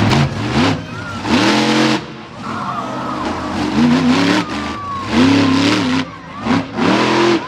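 Monster truck engine revving in repeated short throttle bursts, about five or six surges that each rise and fall in pitch.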